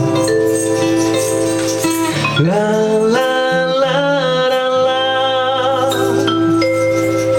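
Live blues song: a singer slides up into long held notes over instrumental accompaniment.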